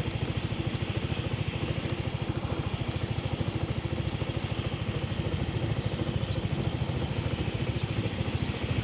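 Motorcycle engine running steadily, with an even pulsing throb.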